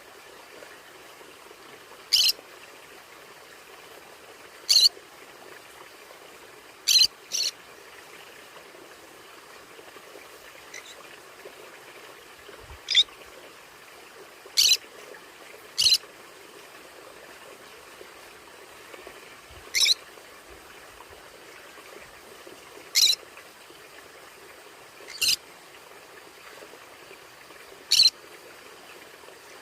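Conure parrot giving short, sharp single calls, about a dozen, every two to three seconds with one quick double call, over a steady background hiss.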